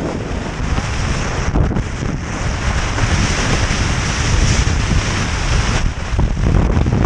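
Blizzard wind buffeting a GoPro Hero4 Session's microphone: a loud, steady rush of noise with heavy low rumble, its hiss swelling in the middle.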